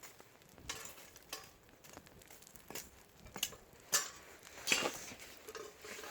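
Metal cooking utensil clinking and scraping against a frying pan in a few irregular strokes, the loudest about four seconds in and a longer scrape just before five seconds.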